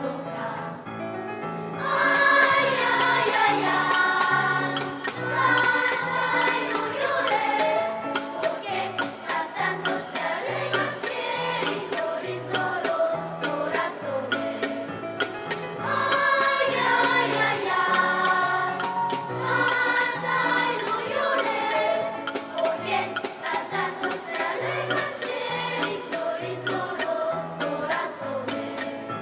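Children's choir singing with a backing track: a bass line under the voices, and a steady jingling percussion beat that comes in about two seconds in.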